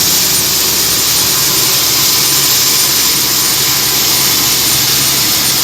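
Ilyushin Il-76's four turbofan engines running steadily at close range, a loud even rush with a thin high whine held over it.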